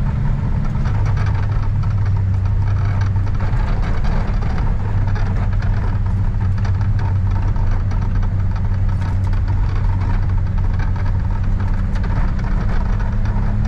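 Truck engine running steadily under way, heard from inside the cab, with a low hum that shifts slightly about a second in.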